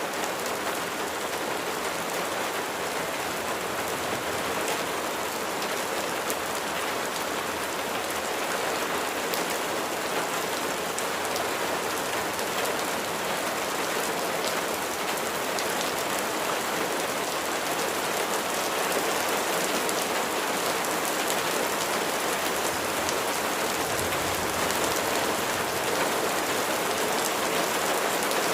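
Steady heavy rain, with the fine ticks of individual drops striking a surface.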